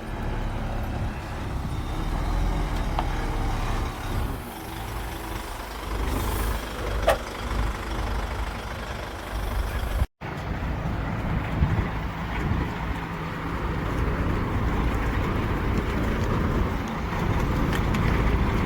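Diesel engines of heavy construction machinery running with a steady low rumble, with one short, sharp squeak about seven seconds in. The sound drops out for an instant at a cut about ten seconds in.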